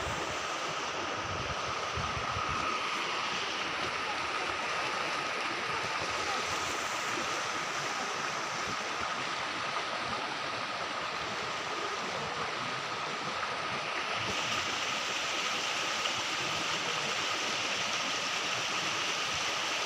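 River water flowing and rushing in a steady, even wash. A thin, steady high tone runs through it.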